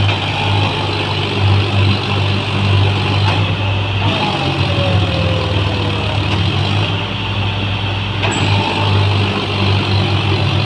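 Tractor diesel engine running loudly and steadily with a deep, continuous hum.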